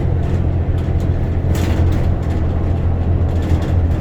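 Bus engine and running noise heard from inside the cabin: a steady low drone, with a short burst of hiss about one and a half seconds in.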